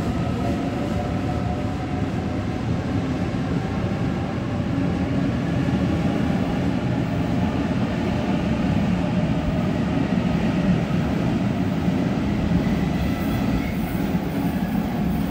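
A double-deck electric passenger train pulls out and accelerates past, with steady wheel and running rumble and a faint rising motor whine in the first few seconds.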